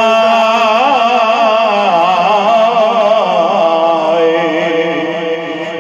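A man's voice singing a Punjabi naat, drawing one line out into a long held note that wavers up and down in ornamented turns.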